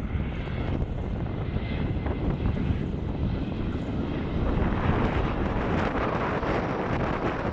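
Jet engines of a landing Embraer E175 airliner, its General Electric CF34-8E turbofans a steady rushing that grows louder about halfway through, with wind buffeting the microphone.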